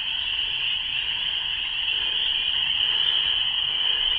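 Dense chorus of frogs calling, massed into one continuous high-pitched ringing with no breaks.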